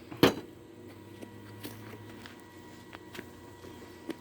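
One sharp clack of something being handled, then a few faint ticks and a brief low hum.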